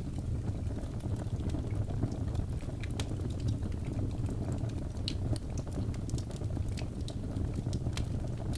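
Wood fire in a fireplace crackling: a steady low rumble of burning with scattered sharp pops and snaps, a few louder ones standing out.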